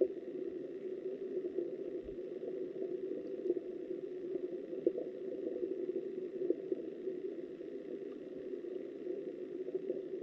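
Steady, muffled rush of flowing river water picked up by a camera underwater, with a few faint clicks.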